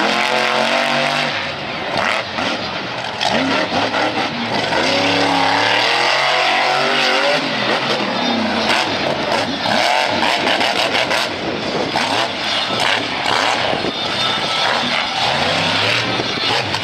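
Monster truck engine revving hard, its pitch climbing and dropping again and again, loud throughout.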